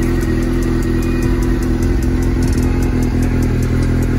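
Suzuki 600 sportbike's inline-four engine idling steadily.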